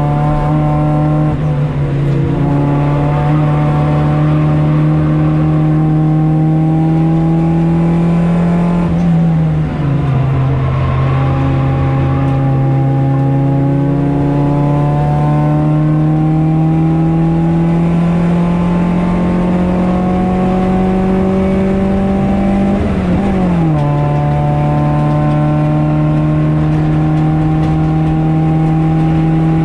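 Race car engine heard from on board, pulling hard with its note rising slowly in each gear, and two upshifts where the pitch drops sharply, about a third of the way in and again about three quarters of the way in.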